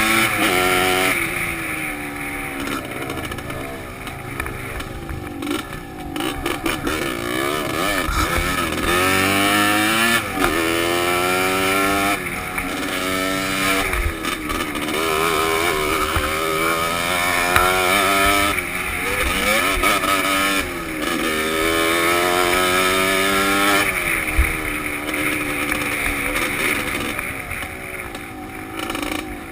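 Off-road motorcycle engine heard from the rider's helmet, its pitch rising and falling over and over as the throttle is opened and closed. A few sharp knocks come through along the way.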